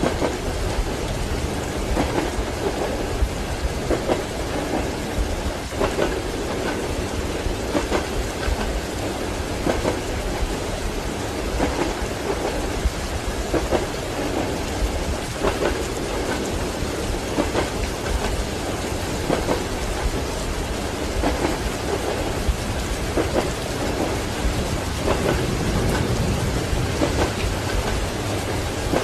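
Steady heavy rain with thunder rumbling, over a train's wheels clacking on the rail joints about every two seconds.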